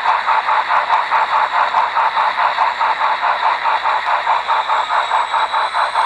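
Model train running on the layout: a steady, rapid rhythmic beat of about five pulses a second, with a steady high whine underneath.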